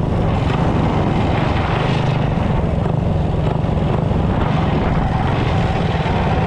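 Mini bike's small gas engine running steadily under way, a loud buzzing drone with slight changes in pitch.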